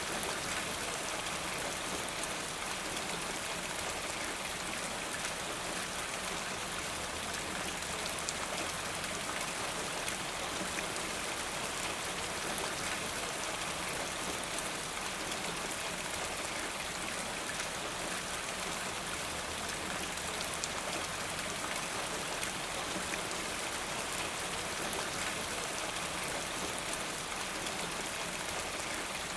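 Steady rain: an even hiss of falling rain with fine scattered drop ticks, unchanging throughout.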